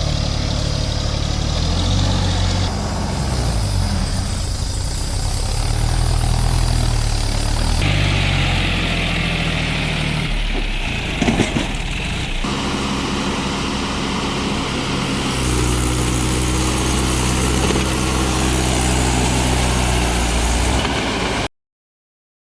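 Heavy diesel machinery engines running steadily at changing speeds, with abrupt changes of sound like cuts between clips. A brief clatter comes about eleven seconds in, and the sound cuts out suddenly near the end.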